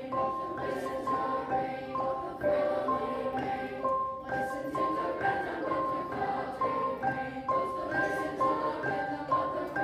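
Music played on mallet percussion, marimba- and glockenspiel-like instruments, with a steady stream of short repeated notes.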